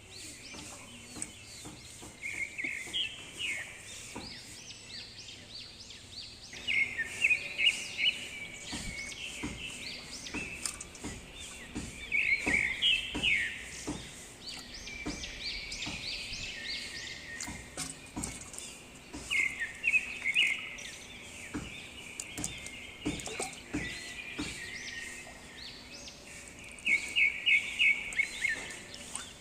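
Birds chirping in quick runs of calls that recur every few seconds, with scattered clicks and a faint steady low hum underneath.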